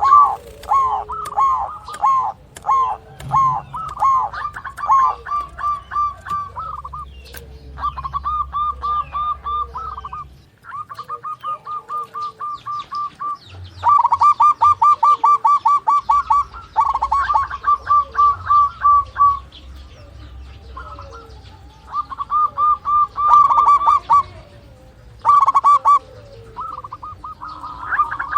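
Zebra dove (perkutut) calling: runs of rapid, repeated cooing notes, each run lasting from about a second to a few seconds, with short pauses between them.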